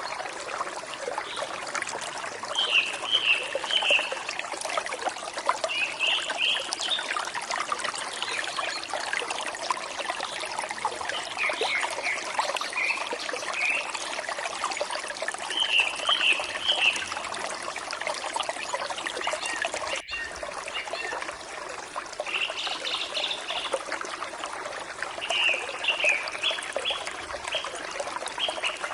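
Forest stream flowing and trickling in a steady rush, with birds calling in short clusters of a few high chirps every few seconds. The sound drops out for an instant about two-thirds of the way through.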